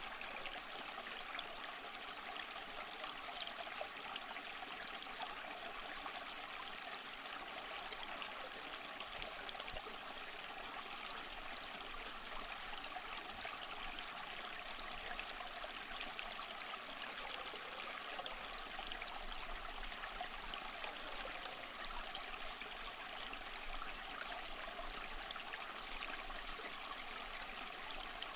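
Waterfall: a steady, unbroken rush of falling, splashing water, bright and hissy with little low rumble.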